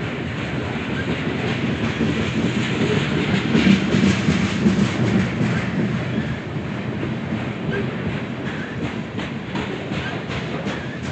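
A long train rolling past, its wheels clicking steadily over the rail joints; it swells loudest about four seconds in.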